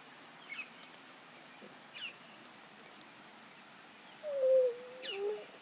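Birds calling: a few faint, short high chirps, then near the end a louder, low single-pitched call lasting about a second that slides down and then drops a step lower.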